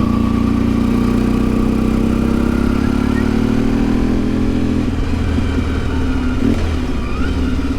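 Motorcycle engine of a 1992 Yamaha XTZ 750 Super Ténéré, a parallel twin, pulling under throttle: its note climbs steadily, then falls about five seconds in and runs lower and steadier.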